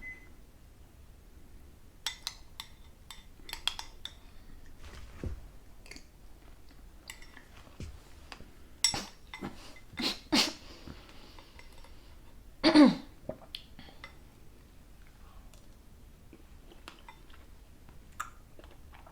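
A spoon clinking and scraping against a bowl of berries in coconut water, in scattered short taps, while the fruit is stirred and eaten. A short vocal sound with a falling pitch comes about two-thirds of the way through.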